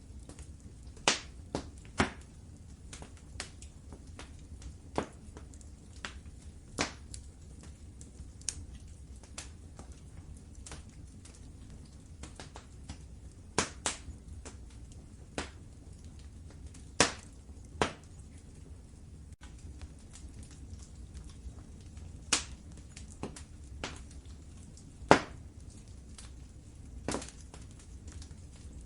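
Wood fire crackling in a fireplace: irregular sharp pops and snaps, a few of them loud, over a low steady rumble. The loudest snap comes about three-quarters of the way through.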